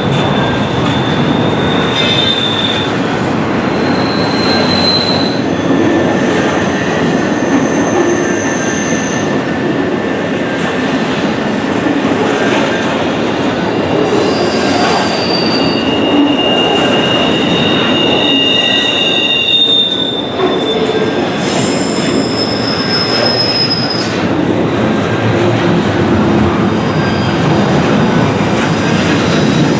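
Freight cars of an intermodal train rolling past with a continuous rumble of steel wheels on rail, overlaid by intermittent high-pitched wheel squeals that come and go every few seconds, each lasting a second or two.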